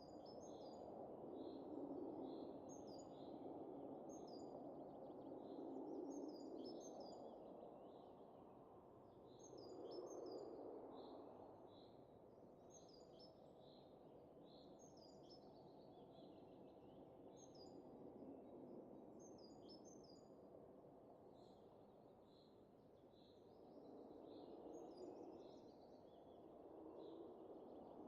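Faint wind swelling and easing in slow gusts, with small birds chirping in short, repeated high calls over it.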